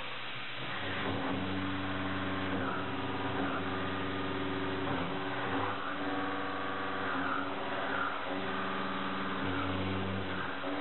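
A 2-inch five-flute Rhino-Feed mid-feed shell mill cutting 4140PH steel at 1050 RPM: a steady, pitched hum at the cutter's tooth-pass rate with a hiss of chip noise over it. The tone shifts in strength every second or two as the width of cut varies.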